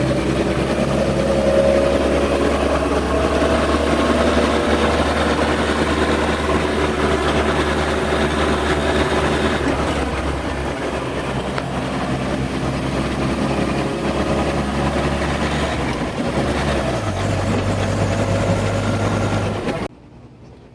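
A 1970 Land Rover Series 2A's engine running loud and steady, heard from the vehicle itself. The low engine note steps up near the end, and the sound then cuts off abruptly.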